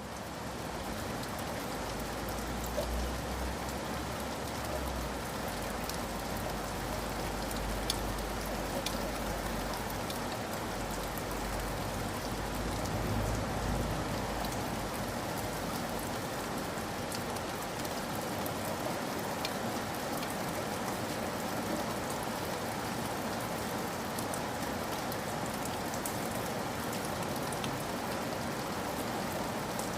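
Steady rain falling, an even hiss dotted with the ticks of single drops. A low rumble sits under it through the first half and fades out about halfway through.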